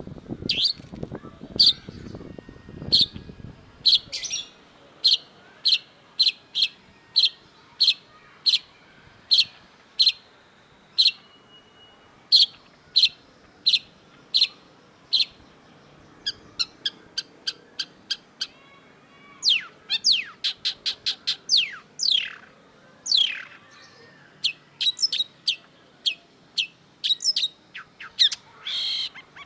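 Long-tailed shrike singing: a long run of sharp, high, repeated notes, about two a second, that changes about two-thirds of the way in to quicker clusters of falling notes.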